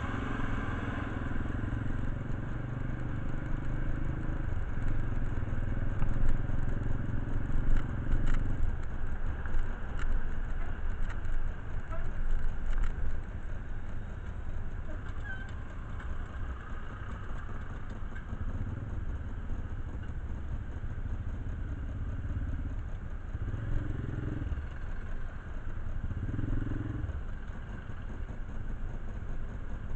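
Motorcycle engine running steadily, with sharp metallic clicks and knocks over it for several seconds.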